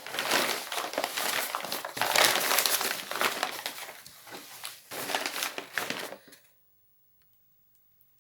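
Thick paper rustling and crinkling in irregular bursts as it is folded by hand around a rose seedling; it stops about six seconds in.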